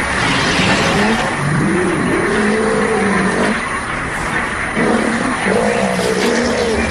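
Elephants and a rhinoceros squaring off: loud, drawn-out calls that rise and fall in pitch, several in a row, over a heavy rough rumble.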